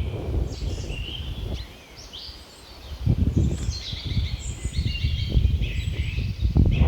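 Many small birds chirping in short, overlapping notes over a low rumbling background noise, which drops away for about a second around two seconds in.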